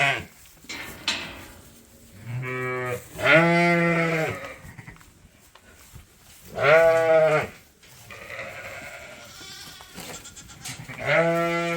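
Sheep bleating: four loud, long, wavering bleats, at about two, three and a half, seven and eleven seconds in, with fainter bleats between them.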